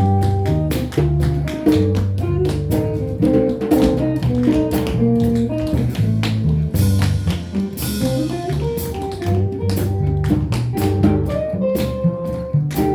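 Small jazz combo playing: guitar picking a melody over double bass and drums, with many sharp clicks of tap shoes from tap dancing throughout, and a cymbal wash for about a second and a half around seven seconds in.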